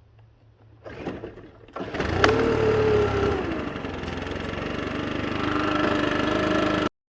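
A gas leaf blower's small engine catches about two seconds in and runs steadily at speed, then stops abruptly near the end.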